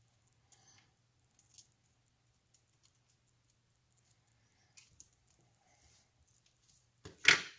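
Scattered light clicks and taps of tools and small parts being handled, with a louder knock and clatter about seven seconds in, over a faint steady low hum.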